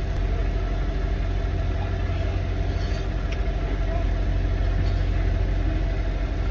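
Semi truck's diesel engine idling, a steady low hum heard from inside the cab.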